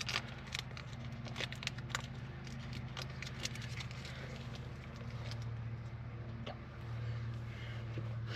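Small plastic clicks and crackles as the protective covers are pulled off new headlight bulbs, scattered irregularly over a steady low hum.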